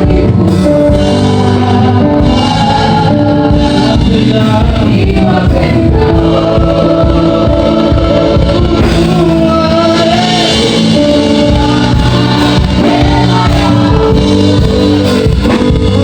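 Gospel music: a choir singing over a band, with a steady beat.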